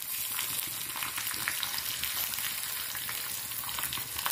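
Mustard seeds, chana dal, curry leaves, green chilli and garlic sizzling in a spoonful of hot oil in a kadhai, with many small crackles, stirred with a wooden spatula: the tempering (chhaunk) for rasam.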